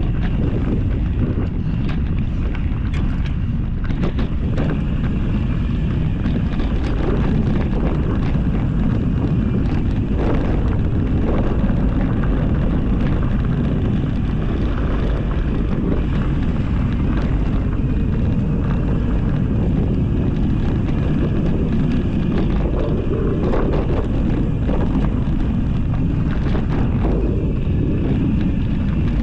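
Wind buffeting the microphone of a mountain bike ride on a rough dirt and rock trail, with steady tyre rumble and frequent short clicks and rattles from the bike over the bumps.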